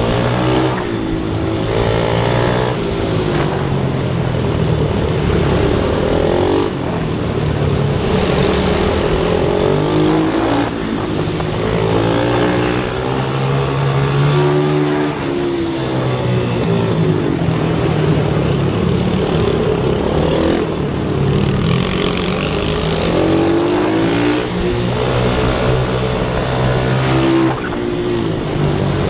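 Pit bike engine running hard, its pitch climbing and dropping again and again as the throttle is opened and closed.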